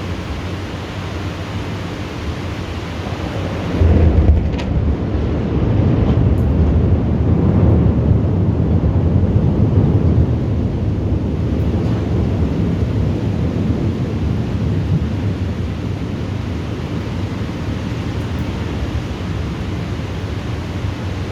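A thunderclap that breaks about four seconds in, loud and low, and rumbles on for several seconds before slowly fading, over steady rain.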